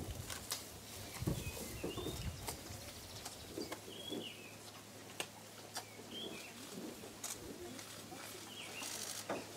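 Wild birds calling: short chirps with small pitch bends, repeated every second or two, over scattered sharp clicks and a low outdoor murmur.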